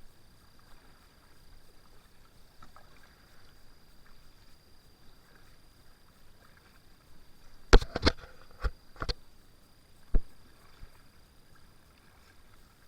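Kayak being paddled, with quiet paddle strokes in the water. About eight seconds in comes a quick cluster of five or six sharp knocks, the first the loudest, and one more knock a couple of seconds later.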